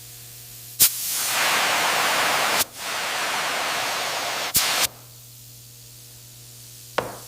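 A loud, steady hiss of a spray or gas jet, switched on with a sharp click just under a second in, dropping a little at a second click midway, and cut off with a click a few seconds later. A faint low hum runs underneath.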